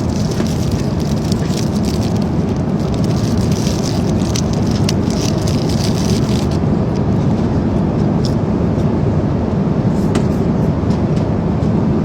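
Steady airliner cabin noise, the constant low rush of engines and airflow. Through roughly the first half it is joined by close, crinkly crackling as a cracker is opened and eaten.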